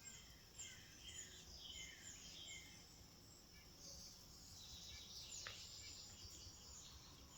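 Faint birdsong: many short, falling chirps from small birds, most of them in the first few seconds, over low steady background noise.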